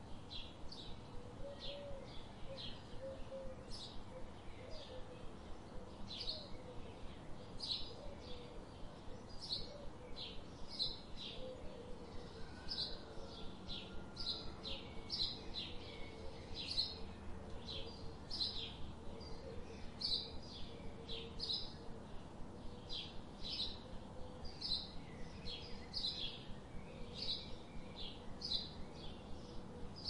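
Songbirds chirping: a steady run of short, sharp high chips, about two a second, with a fainter, lower wavering call underneath.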